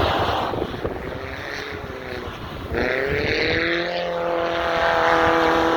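Motocross bike engines running; about three seconds in one engine revs up, rising in pitch, and then holds a steady high note.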